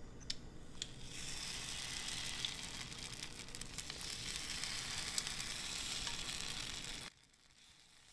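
Okonomiyaki frying in a hot pan: a steady sizzle with scattered crackles, starting about a second in after a couple of light clicks and cutting off suddenly near the end.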